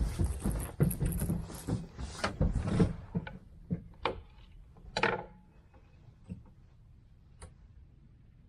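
Clatter of fishing gear being handled in a boat: a quick run of knocks and clicks, thinning to a few single taps.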